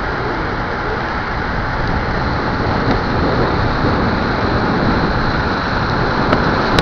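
Steady wind buffeting the microphone, a dense low rumble with no let-up. A couple of sharp clicks come near the end.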